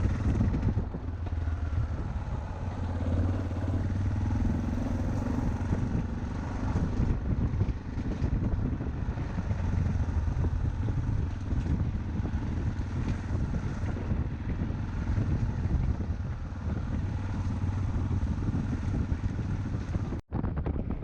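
Yamaha Ténéré motorcycle engine running steadily while riding.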